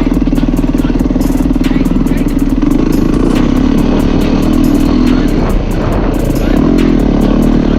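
Yamaha YZ450F's single-cylinder four-stroke engine running under way on a dirt ride, its pitch rising a little, dipping just past halfway and picking up again, with many sharp ticks over it.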